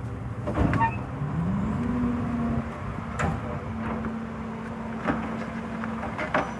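Garbage truck engine revving up, rising in pitch about a second in and then holding a steady higher speed, with a few sharp knocks and clunks.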